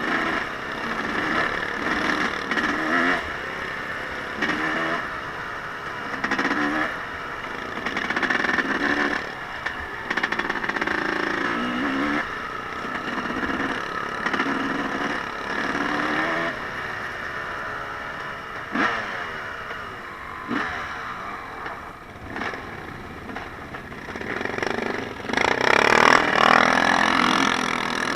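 Small off-road engine being ridden, revving up and falling back again and again as the throttle opens and closes. There are two sharp clicks a little past the middle, and the engine gets louder, revving hard, near the end.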